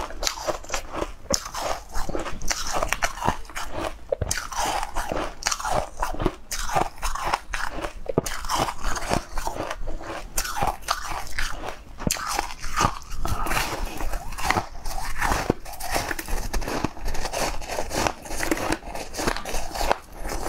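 Close-miked biting and chewing of a crunchy, crystal-crusted purple food: a dense, continuous run of crackling crunches.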